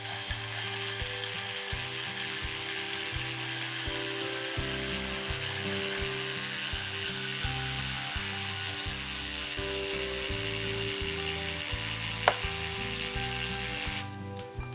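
Makita 18V cordless reciprocating saw running as it cuts through bamboo, stopping shortly before the end, over background music. A single sharp snap, the loudest sound, comes about twelve seconds in.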